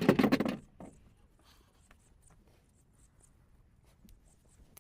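A short flurry of fluttering wingbeats as a group of startled birds flushes, lasting about half a second, then only faint scattered ticks.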